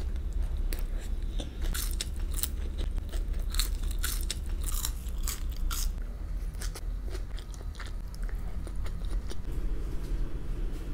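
Close-miked eating: crunchy food being bitten and chewed, heard as irregular crisp crackles and crunches, over a steady low hum.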